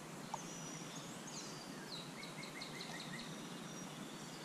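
A songbird singing over a steady outdoor hush: a few high sweeping notes about a second in, then a quick run of repeated notes.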